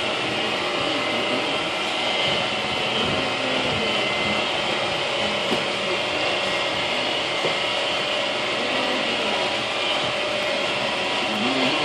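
Glass-bottom tour boat's motor running with a steady hum and whine.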